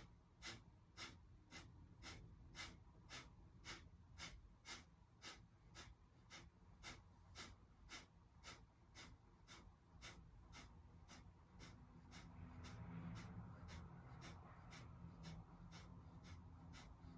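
Kapalabhati breathing: a steady run of short, forceful exhales through the nose, about two a second, each inhale coming passively in between. Faint.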